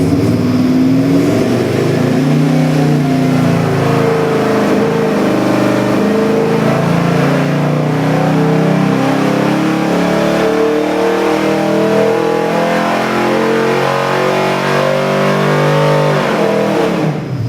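Ford 408 Windsor stroker small-block V8 (351W-based) running loudly and being revved, its pitch rising and falling repeatedly. It stops abruptly near the end.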